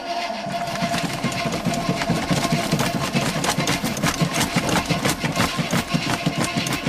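The V8 engine of a 1979 Chevrolet Caprice, being started cold after two years of sitting, runs with a rapid, uneven low pulsing and irregular clicks from about half a second in, stopping near the end.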